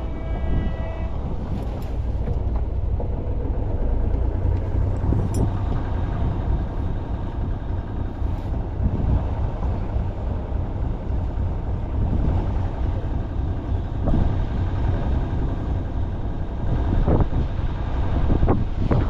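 Sailing yacht's engine running steadily under way, a continuous low rumble mixed with wind and water noise.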